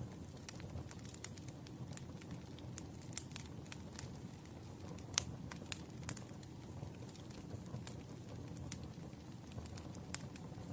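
Firewood burning, crackling with irregular sharp pops over a steady low rumble of the flames; one louder pop about five seconds in.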